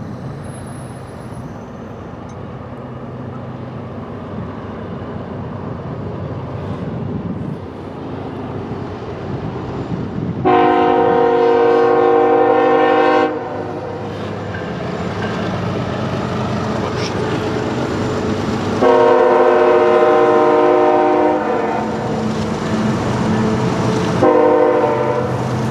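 Approaching diesel freight locomotive blowing its multi-chime air horn over a low engine rumble that slowly grows louder: two long blasts and a short one, the start of the long-long-short-long grade-crossing signal.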